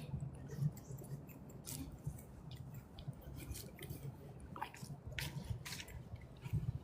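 Lake water lapping gently, with irregular small splashes and drips over a steady low rumble.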